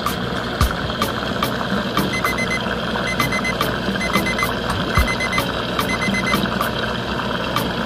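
Short electronic beeps in quick groups of four, about once a second, over a steady hum and a regular clicking beat.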